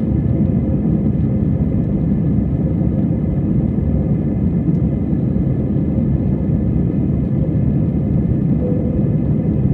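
Jet airliner cabin noise: a steady low roar of the engines and the airflow around the fuselage, heard from a window seat in flight, with a faint steady hum above it.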